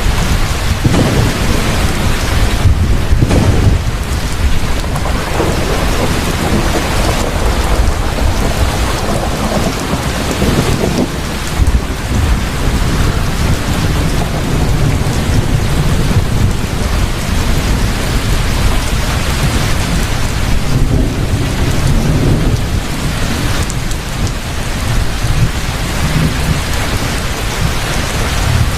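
Heavy rain falling steadily in a thunderstorm, with low rolls of thunder swelling and fading several times, at about a second in, around ten seconds in, and again past twenty seconds.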